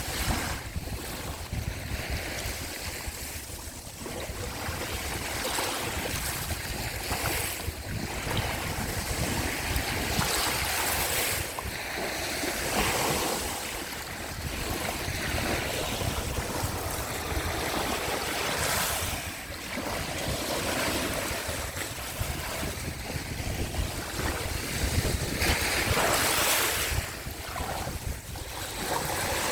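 Small sea waves washing onto the shore, the surf swelling and ebbing every few seconds, with wind rumbling on the microphone.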